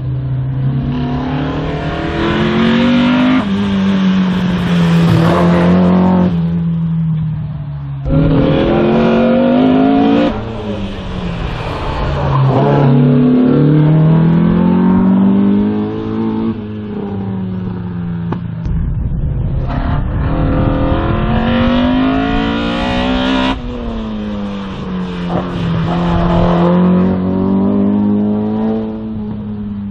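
A race car's engine revving hard as it drives an autoslalom course. Its pitch climbs under acceleration, then drops off sharply, several times over.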